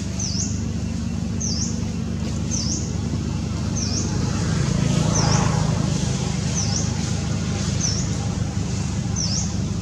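A bird repeating a short, high call about once a second over a steady low hum that swells briefly about five seconds in.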